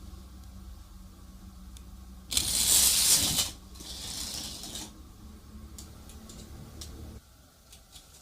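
A loud rattling clatter lasting about a second, then a softer, hissier one, over a low steady hum that stops about seven seconds in.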